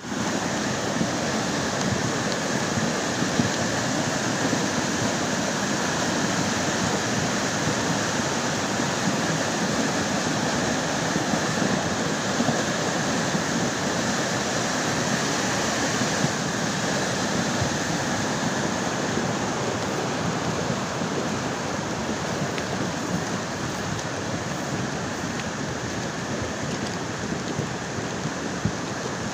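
A river in flood after heavy rain, its water rushing steadily.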